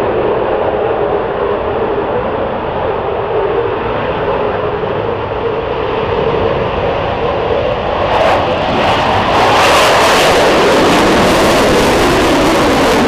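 Eurofighter Typhoon's twin EJ200 turbofans at full afterburner on takeoff: loud, steady jet noise that grows louder and harsher about eight to nine seconds in.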